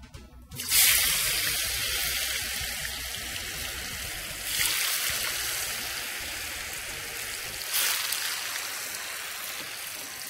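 Cubes of tofu frying in hot oil, a loud sizzle that starts suddenly as they hit the oil. The sizzle swells again twice, about halfway and near eight seconds in, then slowly eases.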